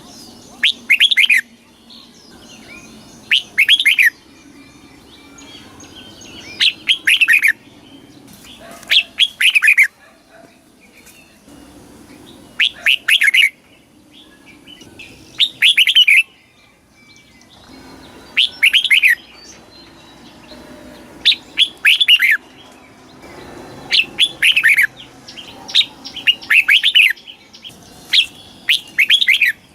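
Red-whiskered bulbul singing: short, loud phrases of several quick falling whistled notes, repeated about every two to three seconds.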